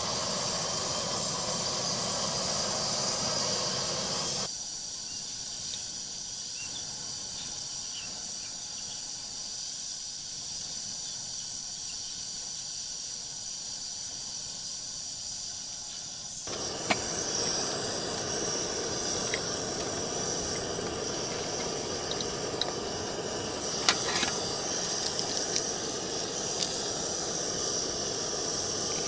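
Steady hiss of rain over a constant high insect drone. The rain noise cuts off abruptly about four seconds in and returns just as abruptly past the middle, with a few sharp taps near the end.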